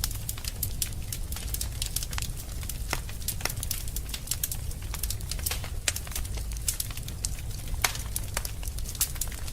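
Fire burning in a fireplace, crackling steadily with frequent irregular sharp pops and snaps over a low, even rumble.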